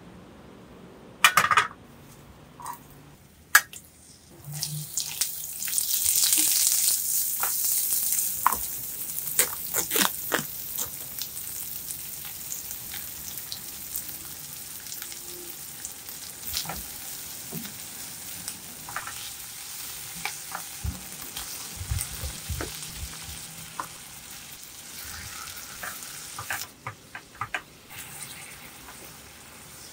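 Food sizzling in hot oil in a granite-coated wok. After a few sharp clicks, a loud sizzle starts about four seconds in and is strongest for the next few seconds, then goes on more quietly under stirring, with frequent taps of a utensil on the pan.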